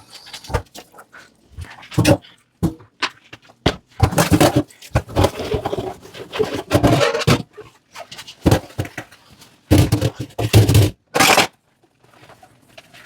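Dishes being handled and scrubbed in a kitchen sink: scraping and clattering knocks in irregular bursts.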